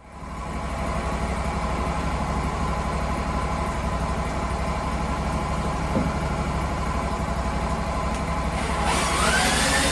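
Sawmill engine running steadily, fading in at the start. About nine seconds in, a rising whine and a hiss come in as the machine picks up.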